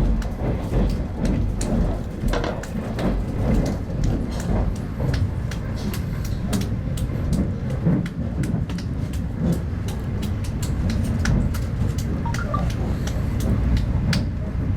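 Inside a moving RZ25T passenger carriage: a steady low running rumble with frequent short clicks and rattles.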